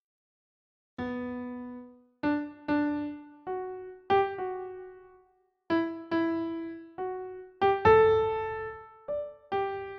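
Slow, gentle keyboard melody of single notes, each ringing and fading, starting about a second in after a short silence.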